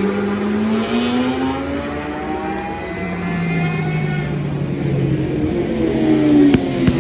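Racing motorcycles passing on the circuit one after another, their engine notes rising and falling as they go by, with a few sharp clicks a little before the end.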